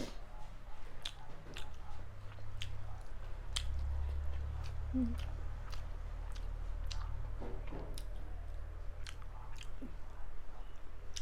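A person chewing mouthfuls of mutton curry and rice close to the microphone, with irregular wet clicks and smacks of the mouth.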